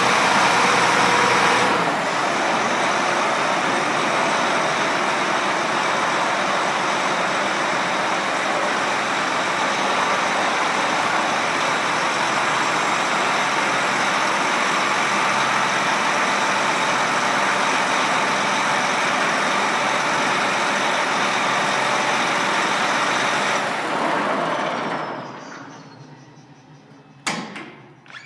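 John Deere 8235R tractor's six-cylinder diesel running steadily after a cold start in about 25°F weather. It drops a little in level about two seconds in and fades away near the end, followed by a single sharp knock.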